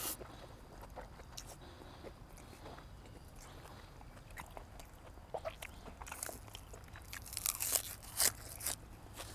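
A person biting and chewing crunchy food close to the microphone: scattered crunches, with a louder, quicker run of them from about six seconds in.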